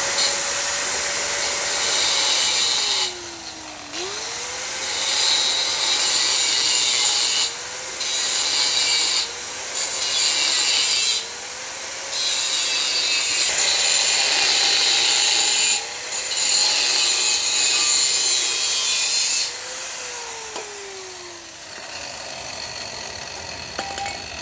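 Angle grinder spinning up and cutting the thin steel of an old oil filter in several stop-start passes: its motor pitch wavers and dips under load while the cutting hiss comes and goes. The motor winds down near the end.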